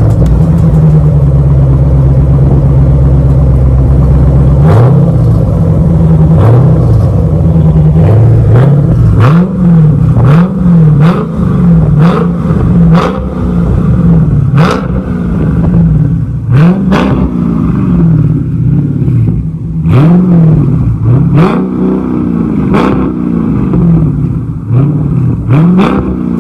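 2012 BMW M3's 4.0-litre V8 running through a Kinney's Street Demon performance exhaust. It idles steadily for the first few seconds, then is revved again and again in short blips that rise and fall back, about one a second.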